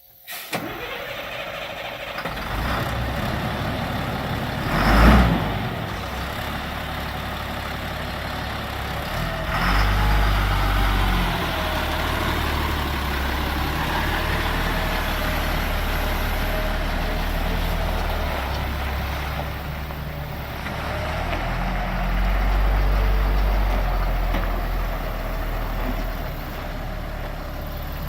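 Diesel engine of a 2004 Freightliner M2 grain truck starting right at the beginning and then running, brought up to higher revs about ten seconds in and again after twenty seconds. A short loud hiss of air comes about five seconds in.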